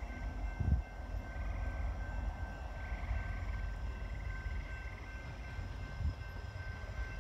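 Low, steady rumble of a distant train approaching. A faint high trill comes and goes above it, and two short low thumps land, about a second in and near the end.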